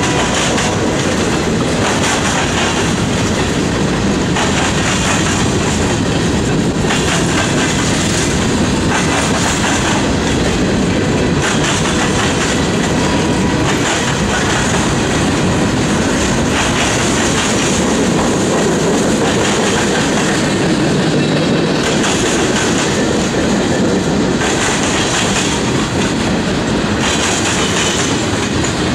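Mixed freight cars of a manifest train rolling past close by: a steady, loud rumble of steel wheels on rail with a clickety-clack that swells every couple of seconds as each car's wheel sets go by.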